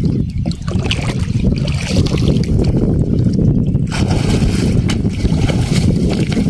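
Wind buffeting the microphone in a steady low rumble over water sounds from a small fishing boat, with a few light knocks in the second half.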